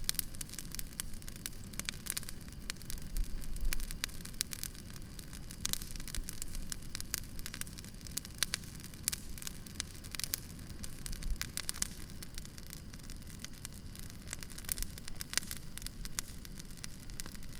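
Wood campfire crackling: frequent irregular sharp pops and snaps over a steady low rumble.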